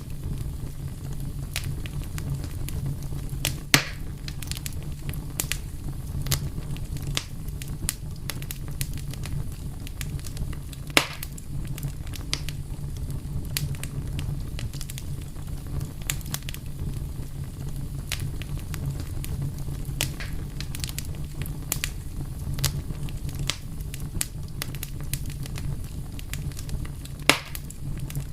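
Wood fire burning with a steady low rumble and frequent sharp crackles, with three louder pops spread through.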